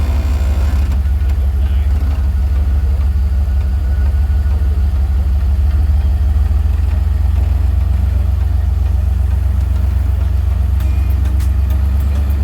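Truck engine idling steadily with a deep, even low rumble.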